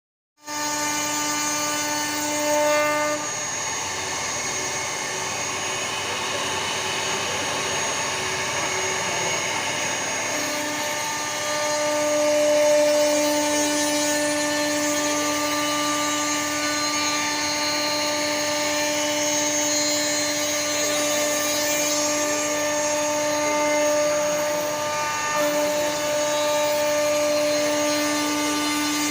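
CNC router spindle running and cutting a door design into wood or MDF: a steady whine over a cutting hiss, dipping in pitch briefly about ten seconds in.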